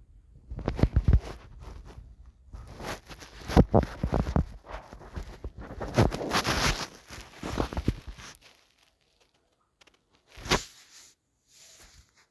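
Irregular rustling, crinkling and tearing in uneven bursts for about eight seconds, then two short rustles near the end, with no steady motor whine.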